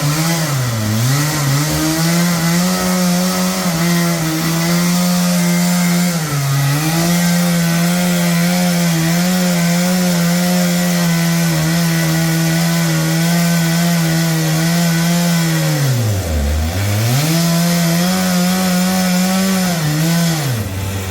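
Two-stroke chainsaw cutting wood, running at high revs with a steady pitch. It dips in pitch briefly twice and then deeply about three-quarters of the way through as it bogs under load, and it drops away right at the end.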